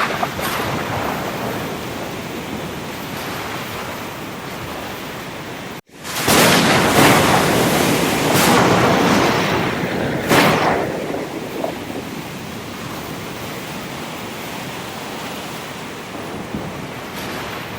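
Ocean surf: a steady wash of waves on the shore. About six seconds in the sound cuts out for an instant, then comes back louder, with three or four waves crashing over the next few seconds before it settles back into a steady wash.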